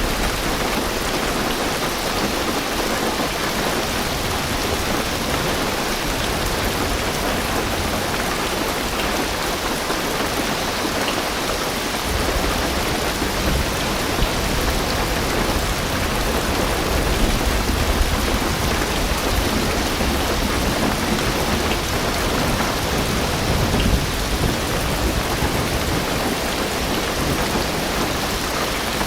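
Heavy rain drumming steadily on a car roof and windows. About halfway through, a low rumble of distant thunder swells and fades.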